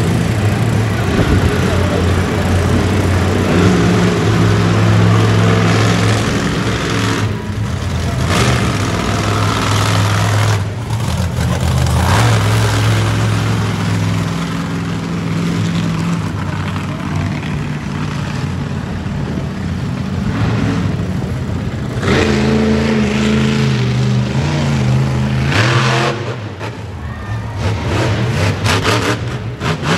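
Monster truck engine running hard, its pitch rising and dropping repeatedly as the throttle is worked. Near the end it breaks into rapid stuttering throttle blips.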